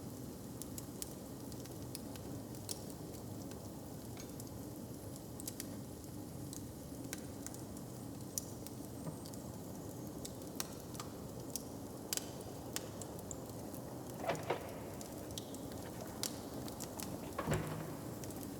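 Open fire crackling, with many small sharp pops over a steady low background rumble. Two louder knocks stand out, one about two-thirds of the way in and one near the end.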